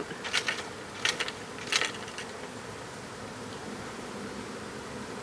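Honeybees buzzing steadily in the air around an opened hive box, with three brief sharp clicks within the first two seconds.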